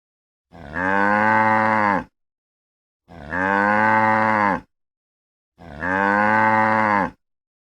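Cow mooing three times, each a low drawn-out moo of about a second and a half, the same call repeated with clean silent gaps between.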